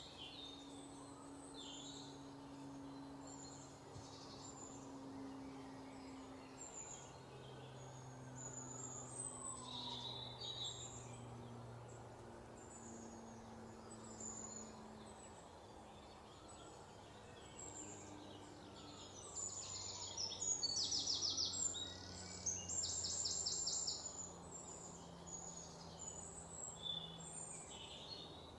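Faint outdoor ambience of small birds chirping off and on, with two louder, rapid trilled calls about two-thirds of the way through, over a low steady hum.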